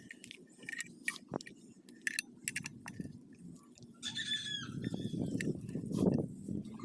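Scattered metal clinks and taps of hand tools as a motorcycle wheel is taken off, with a brief high falling squeak about four seconds in.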